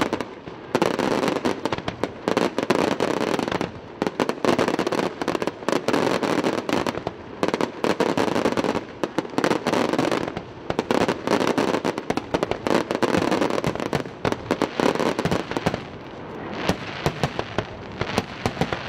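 Aerial fireworks shells bursting in a rapid, near-continuous run of bangs, many per second with only brief lulls.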